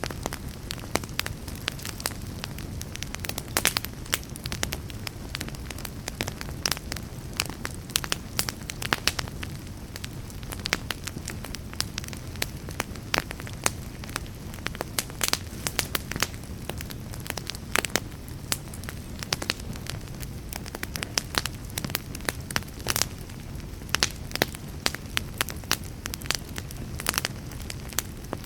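Wood fire crackling and popping in a fireplace: many irregular sharp pops over a steady low rumble of the flames.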